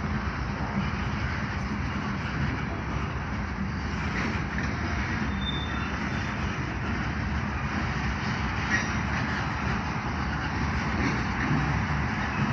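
Freight train cars rolling past, with a steady rolling noise of wheels on rail and a brief wheel squeal about halfway through.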